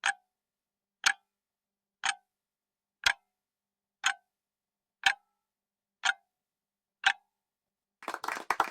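Countdown timer sound effect ticking once a second, eight sharp clock-like ticks with silence between. Near the end a dense, rapid clattering starts.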